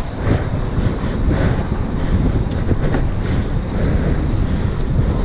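Wind buffeting a head-mounted GoPro's microphone while riding along, a loud, dense low rumble that surges in irregular gusts.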